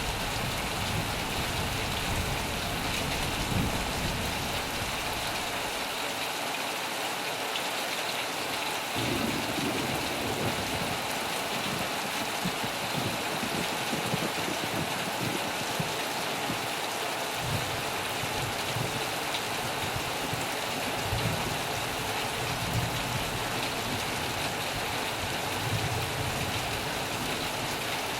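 Heavy rain falling steadily, with soft low rumbles coming and going underneath.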